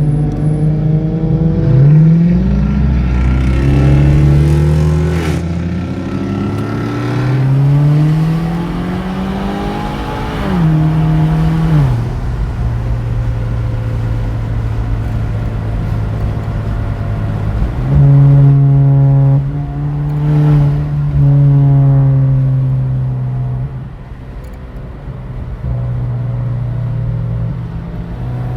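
Car engine revving up three times in the first twelve seconds, its pitch climbing and falling back each time. It then runs at a steady speed, louder for several seconds in the middle of the second half before easing off.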